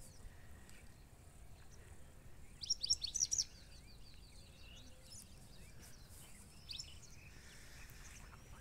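Small birds chirping, with a burst of quick, high chirps about three seconds in and a shorter burst near seven seconds, over a faint low background rumble.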